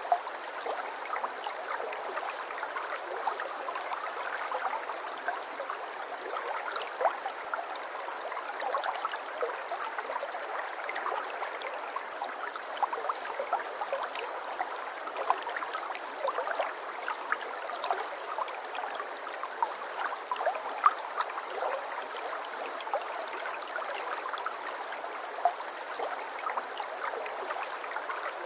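A shallow brook babbling steadily, water splashing and gurgling over stones with many small bright splashes.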